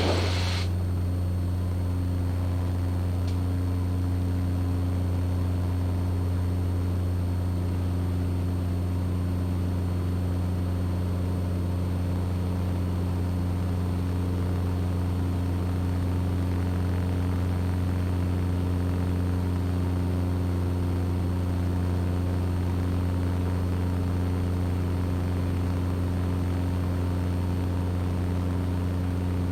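Steady engine and propeller drone of a Mooney M20E's four-cylinder engine at climb power, heard inside the cabin.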